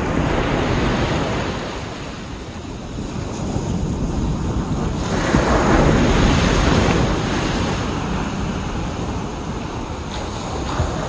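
Ocean waves breaking and washing up a beach, with wind rumbling on the microphone. One wave surges loudest about halfway through, then recedes.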